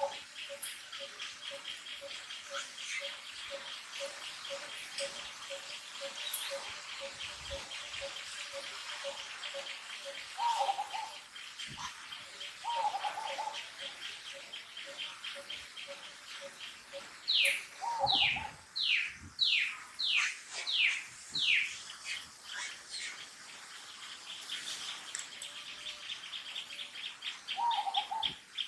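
Wild birds calling in a tree canopy: a steady fast trill, an even series of low ticking notes through the first half, and a few short low calls. About 17 seconds in, a bird gives a run of about seven falling whistles, the loudest sounds.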